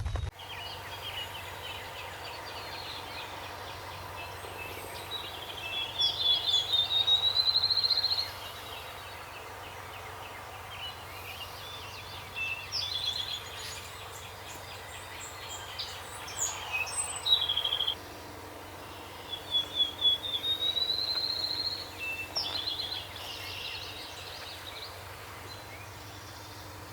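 Songbirds singing over a steady background: a rising, speeding-up trilled song is heard twice, about 5 seconds in and again about 19 seconds in, with other short chirps and calls in between.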